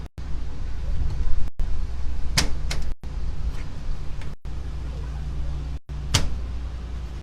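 A few sharp knocks, the loudest about a third of the way in and again near the end, with lighter taps between, as a new window frame is worked into the wall opening; a steady low rumble runs underneath.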